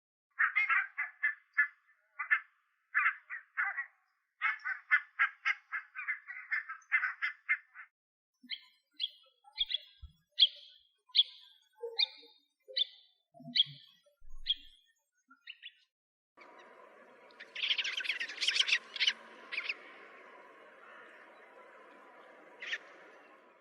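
Wild birds calling, in what sound like separate recordings one after another: first a fast chattering run of repeated notes, then a slower series of high, down-slurred notes about one and a half a second, then, after a hiss comes in around two thirds of the way through, a short burst of calls and a single call near the end.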